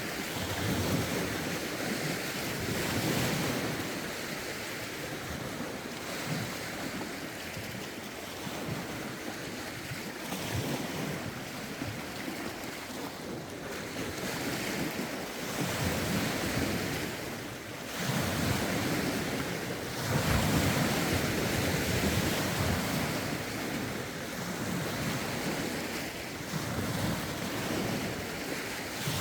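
Choppy lake waves washing in, surging every few seconds, with a rough wind rushing against the phone's microphones.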